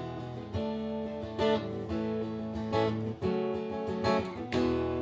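Guitar strumming chords, with a fresh strum every second or so and the chords ringing on between them.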